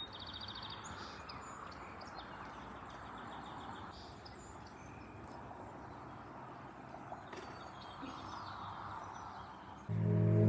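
Small birds chirping in short, rapid trills over a faint, steady background noise. Guitar music comes in suddenly near the end.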